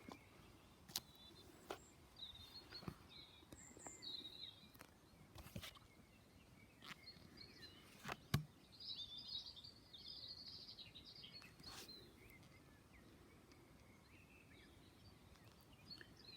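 Faint birdsong, a scatter of short chirping calls over quiet outdoor ambience, with a few soft clicks, the sharpest about eight seconds in.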